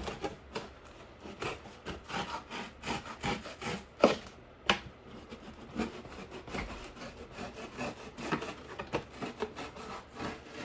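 A knife sawing and scraping through corrugated cardboard in a run of short, scratchy strokes, with a couple of sharper clicks about four seconds in.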